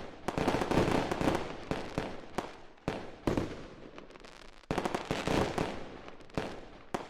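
Fireworks going off: several clusters of sharp bangs and crackles, each dying away.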